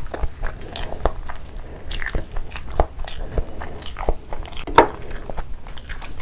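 Close-miked eating sounds: wet chewing and lip smacking on chicken curry and rice eaten by hand, in quick irregular clicks, with one louder wet smack about three quarters of the way through.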